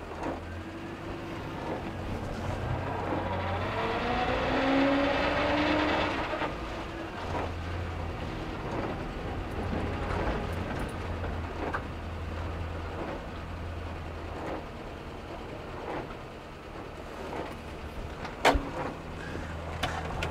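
1966 Morris Minor's four-cylinder engine running as the car is driven, revving up with a rising pitch about three to six seconds in, then settling back to a steady hum. A sharp click comes near the end.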